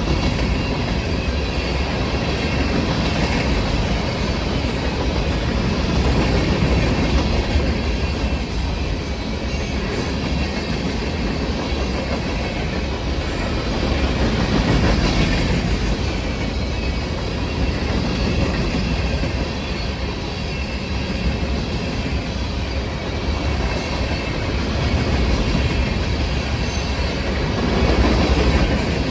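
Norfolk Southern freight train rolling past, its cars rumbling and clattering over the rails with a steady, loud din that swells and eases as cars go by.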